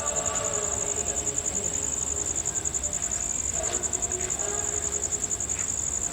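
Crickets trilling: a loud, high, rapidly pulsing chirr that runs on without a break, over faint distant voices.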